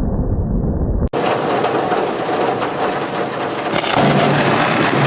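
Thunder rumbling deep and muffled, then, after a sudden cut about a second in, heavy rain hissing steadily with crackling thunder. The thunder grows louder about four seconds in.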